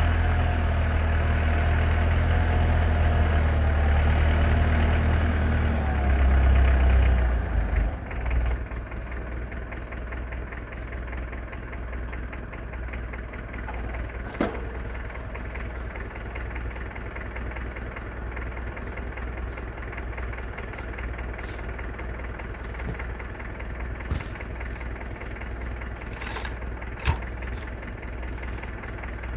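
Tractor engine running hard for the first several seconds, then dropping to a steady idle about seven seconds in, with a few faint knocks.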